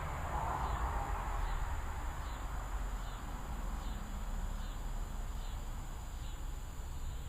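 Evening insects chirping, crickets or katydids, with a regular chirp a little more than once a second over a steady high insect drone. A steady low rumble runs underneath, and a swell of noise rises and fades within the first second or so.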